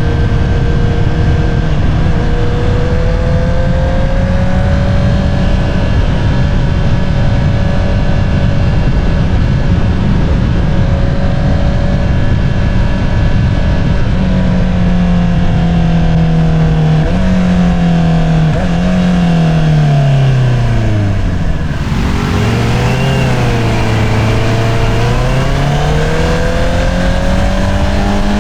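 Honda CBR650R inline-four engine running through an Akrapovič single-outlet exhaust: a steady cruising note for about the first half, then the pitch drops in a few steps as the bike slows, bottoms out, and climbs again near the end as it accelerates. A constant rush of wind sits under the engine note.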